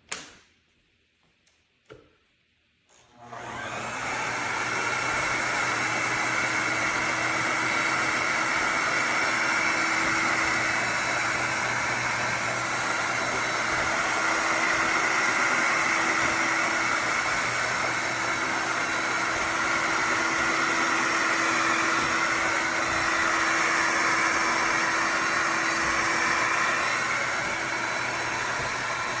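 Two short clicks, then about three seconds in a Shark HydroVac MessMaster cordless wet-dry vacuum mop starts up and runs steadily with a constant motor whir.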